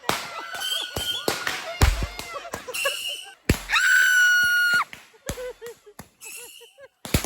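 Roman candles firing from racing RC trucks: a rapid series of sharp pops and bangs, with voices shouting. A shrill tone holds for just over a second past the middle of the clip.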